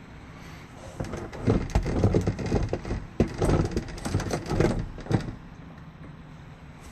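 A burst of knocks, clatters and rattles lasting about four seconds, loud and irregular, then it stops, leaving a steady background hiss.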